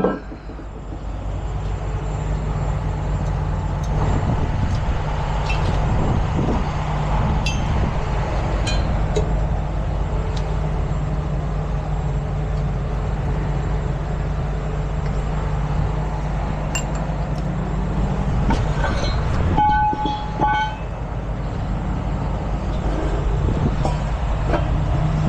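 Heavy tow truck's diesel engine running steadily, with a few scattered metallic knocks and a short pitched tone, like a toot, about twenty seconds in.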